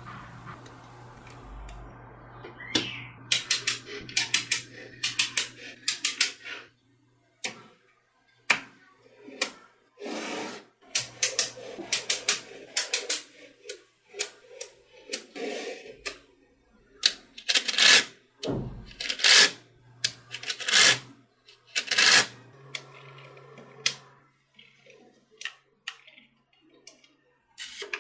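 Small magnetic balls clicking and snapping together in quick clusters of sharp clicks, with short rattles as they are handled and rolled against each other.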